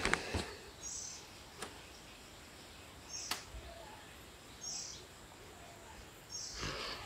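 A bird calling repeatedly: four short, high calls about two seconds apart. There are a few faint clicks and a brief rustle at the start.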